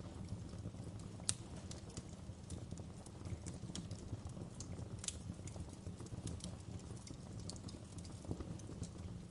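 Wood fire crackling in a fireplace: irregular sharp pops and snaps over a low steady rumble of burning, with one louder pop about a second in.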